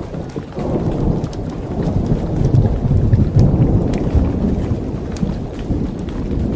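Rolling thunder rumbling over steady rain. The rumble swells about half a second in, is loudest around the middle and eases off near the end. Scattered sharp crackles from a campfire sound through it.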